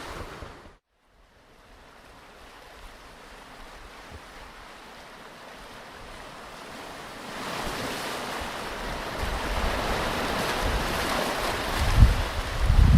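Ocean waves washing on a beach. The sound cuts out to silence for a moment about a second in, comes back faint, and swells louder from about halfway, with two low thumps near the end.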